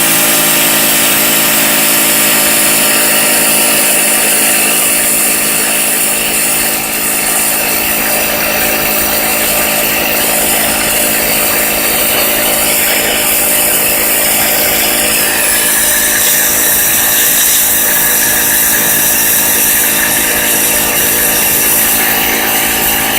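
AR Blue Clean AR390SS electric pressure washer running continuously, its motor and pump giving a loud, steady whine over the hiss of a 0-degree jet blasting paint spots off a surface. The sound shifts slightly about two-thirds of the way through and cuts off at the very end.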